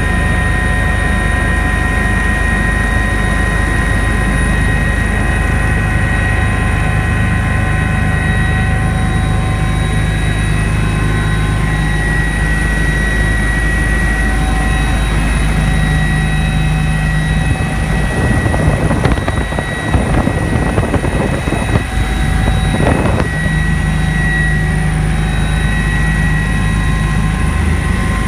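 Army helicopter in flight, heard from aboard: a steady low rotor and engine rumble under several steady high turbine whines. The sound turns rougher and uneven for a few seconds about two-thirds through.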